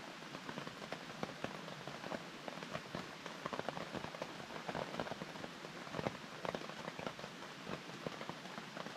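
Steady rain falling, with many irregular sharper drops striking close by.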